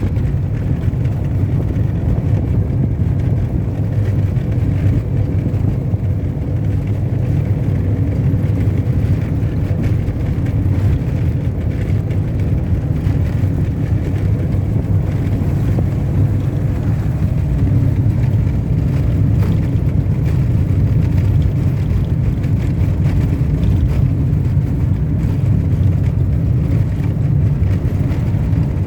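Vehicle driving along a dirt road: a steady low rumble of engine and tyres on the unpaved surface.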